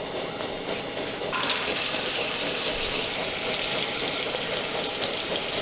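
Steak frying in hot lard in a pan on a camp stove: a sizzle with crackling spatter that gets suddenly louder about a second in.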